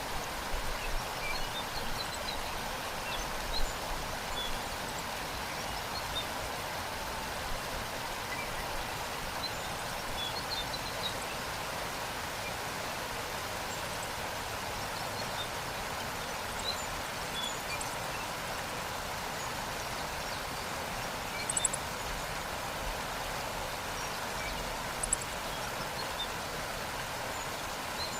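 Waterfall: a steady rush of falling water tumbling over rocks, with faint, scattered bird chirps above it.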